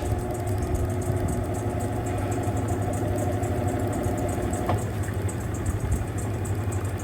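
Mueller Popmatic 8 kg washing machine running with a steady low motor hum. A higher steady whine sounds over it and stops with a click about five seconds in.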